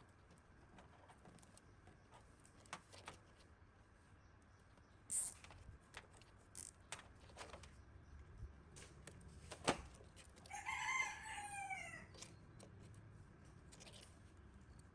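Scattered light clicks and taps, the sharpest just before a bird calls once in the background: one drawn-out call of about a second and a half that falls in pitch at the end.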